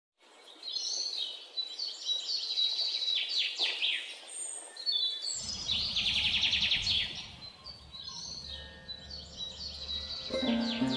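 Birds chirping and trilling in quick, overlapping calls, with a low rumble underneath from about halfway through. Music begins near the end.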